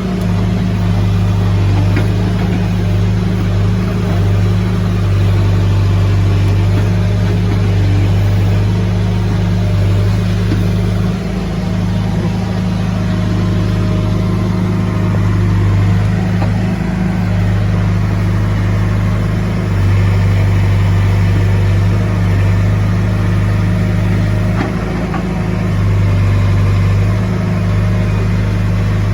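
Diesel engine of a CASE backhoe loader running steadily under work, its low note strengthening and easing every few seconds.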